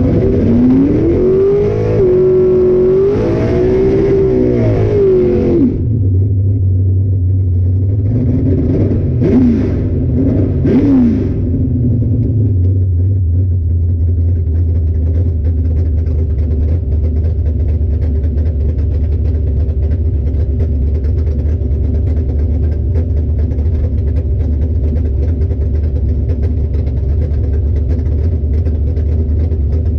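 Car engine revving up and down several times, with a few more brief blips of the throttle, then running at a steady drone.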